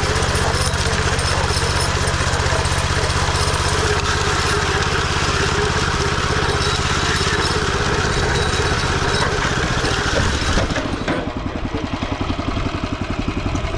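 An engine running steadily, then settling about ten seconds in to a lower, pulsing run.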